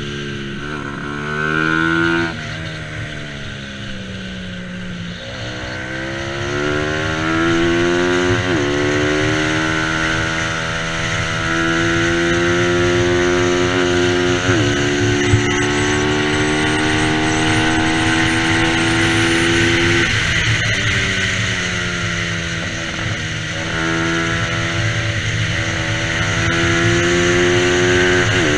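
Bajaj Pulsar 200 NS single-cylinder engine racing at high revs. Its pitch climbs and then drops sharply at each gear change, about five times, and sinks gradually in a couple of places where the throttle eases off.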